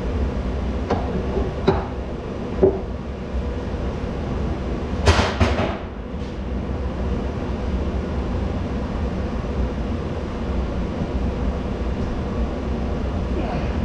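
Steady low mechanical hum, with a few light knocks in the first three seconds and a louder clatter of hard objects about five seconds in.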